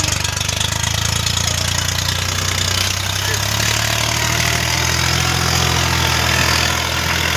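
Swaraj tractor's diesel engine running loudly and steadily.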